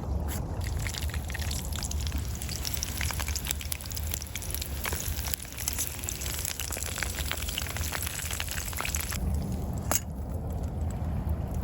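French fries frying in a pan over a campfire, a dense sizzling crackle that cuts off suddenly about nine seconds in. A steady low rumble runs underneath.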